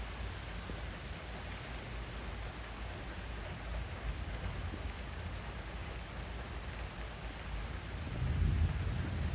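Rain falling steadily in a thunderstorm, with a low rumble of thunder that swells louder near the end.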